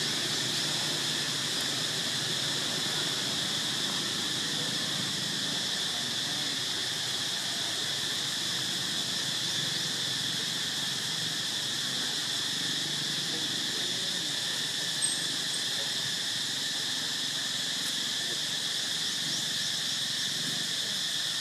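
Steady insect chorus, an unbroken high drone with several fixed pitches, over a faint low murmur; a single sharp click about fifteen seconds in.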